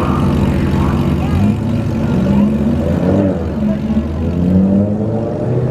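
A car engine running steadily, its pitch shifting slightly about a second and a half in, with voices in the background.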